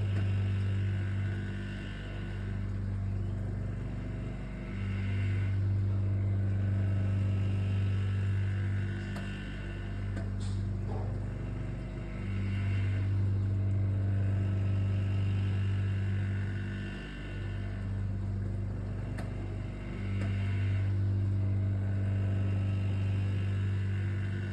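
Dishwasher's pump running with a low hum that swells and dips every few seconds: a noise the owner takes for a sign that something is defective.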